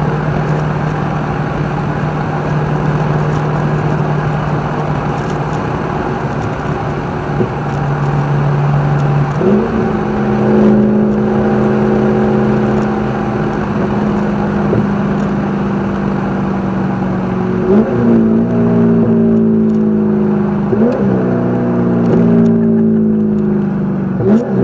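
Race car engine under load, heard from on board at speed: a steady note that steps up in pitch about ten seconds in. Later the engine note jumps up sharply three times, each time falling off again over a couple of seconds.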